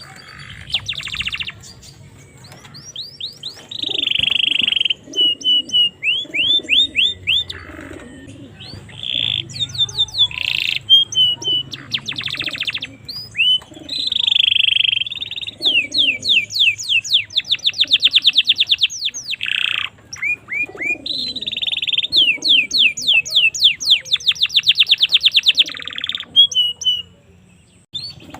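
Domestic canary singing a long, varied song: buzzy held notes, fast rolling trills and quick runs of rising chirps, repeated phrase after phrase.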